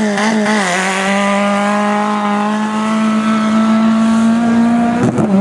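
Racing vehicle engine held at high revs, one steady tone whose pitch creeps slowly upward, with a brief break in the sound about five seconds in before it steadies again.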